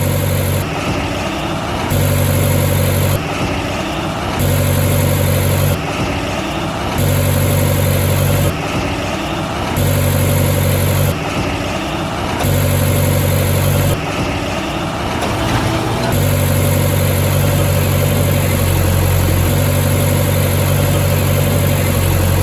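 Heavy vehicle engine idling steadily, a sound laid over the footage of a die-cast model backhoe loader. For the first sixteen seconds it cuts back and forth between two slightly different engine sounds about every second and a half, then holds one steady sound.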